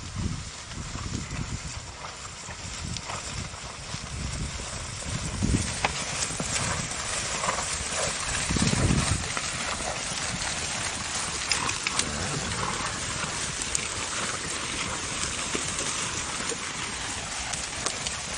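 Horses, with scattered hoof knocks and low thumps over a steady hiss.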